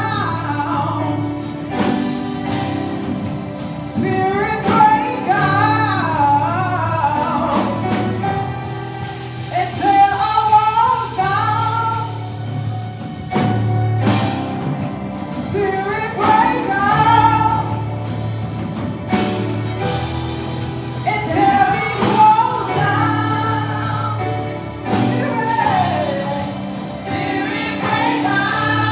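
Live gospel worship music: voices singing a melody with a choir over a band, with steady bass notes and drum hits.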